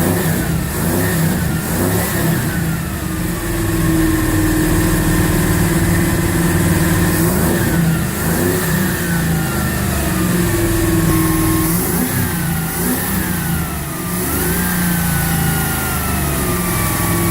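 Slant-six engine running and being revved in repeated throttle blips. Each time the pitch jumps up and slides slowly back down to a steady idle, several times over.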